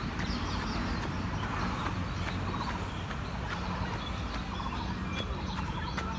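Footsteps on a red clay running track, irregular short clicks, with birds chirping and trilling over a steady low rumble.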